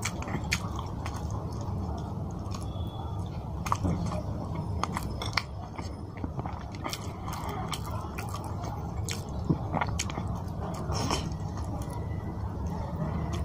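A person chewing mouthfuls of fish curry and rice, with scattered short mouth clicks throughout.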